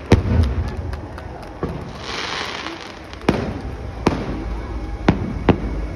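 Aerial fireworks shells bursting in a series of sharp bangs, about eight in six seconds, the loudest right at the start and about three seconds in, over a low rumble of echo, with a short hissing spell about two seconds in.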